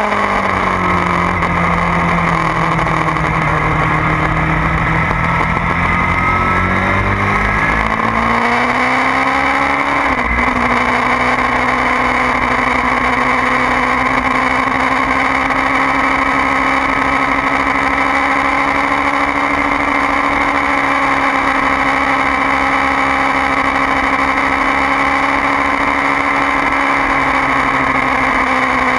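2009 Kawasaki ZX-6R's inline-four engine running at speed on track. Its note holds steady, rises over several seconds to a brief dip about ten seconds in, then holds steady at a higher pitch.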